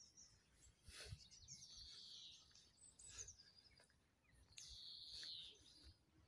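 Faint birdsong: a few short high chirps and two longer calls of about a second each, one about a second and a half in and another about four and a half seconds in.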